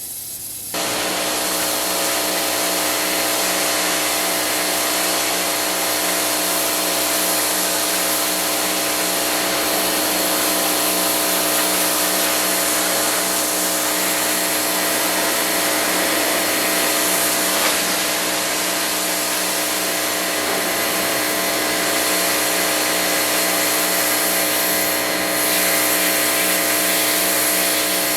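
Pressure washer running steadily: a motor hum under a loud hiss of spraying water. It comes in abruptly about a second in and holds without change.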